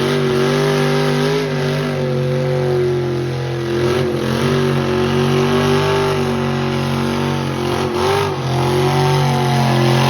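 Crown Victoria's 10.3-liter big-block engine held at high revs under a burnout, its pitch wavering up and down and dipping briefly about eight seconds in.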